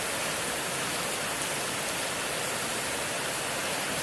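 Heavy rain and fast-flowing floodwater rushing through a street, a steady, loud hiss with no breaks.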